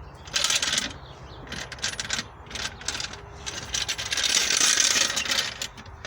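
A metal car jack being shoved and dragged about on the ground as it is worked under the car's chassis rail: irregular bursts of rattling and scraping, the longest and loudest about four seconds in.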